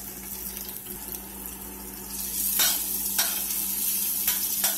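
Minced garlic and ginger sizzling in hot olive oil in a stainless steel pan while a spoon stirs them. The sizzle grows louder about two seconds in, and the spoon scrapes across the pan four or five times.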